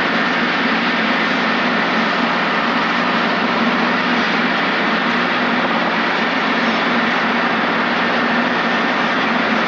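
Steady cabin noise of a Robinson R22 helicopter in cruise: engine and rotor running evenly, with a constant low hum under a wide, level noise.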